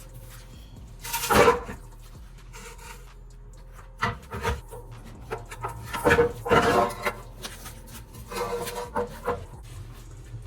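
Metal scraping and knocking as a car's transmission crossmember is worked loose and brought down. The scrapes come irregularly, loudest about a second in and again around six to seven seconds in.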